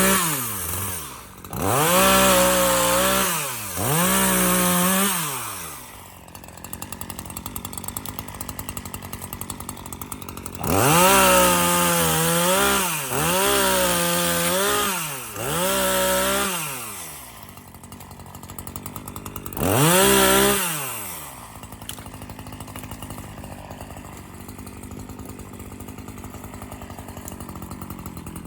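Echo 3510 chainsaw revving in about seven short bursts, each rising and then falling in pitch, as it cuts through pine branches. Between the bursts it drops back to a rattling idle, with a longer stretch at idle in the middle and toward the end.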